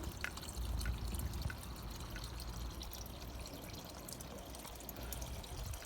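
Faint steady trickle of water.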